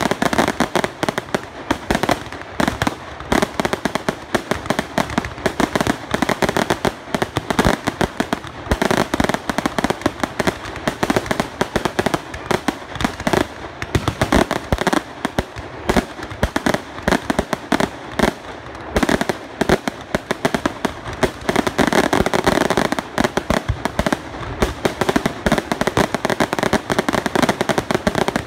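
Fireworks display: a rapid, continuous barrage of bangs and crackling from exploding aerial shells.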